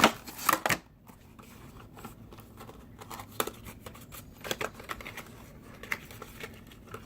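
Handling noises from a die-cast model car being picked up and turned over in the hands. A few sharp clicks and knocks come in the first second, then scattered faint clicks and rustles.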